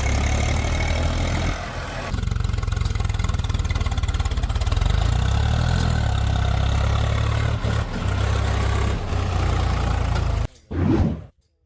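Heavy diesel engine running at steady revs with an even, rapid firing pulse. It cuts off abruptly near the end, followed by a brief short sound and then near silence.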